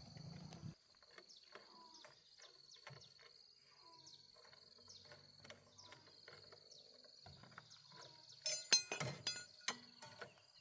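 Metal tools and parts clinking together in a quick cluster of sharp clinks near the end, with scattered lighter ticks before. A steady high-pitched insect drone runs underneath.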